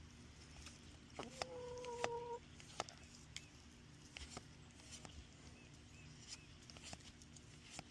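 A chicken calling faintly: one held note lasting about a second, a little over a second in, among a few soft taps and clicks.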